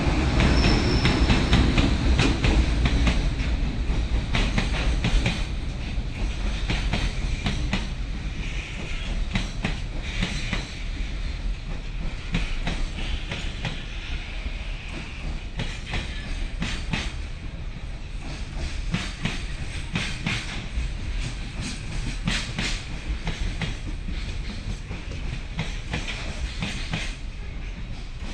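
Long freight train of wagons rolling past, its wheels clacking over rail joints in repeated groups of clicks under a steady low rumble, gradually getting quieter.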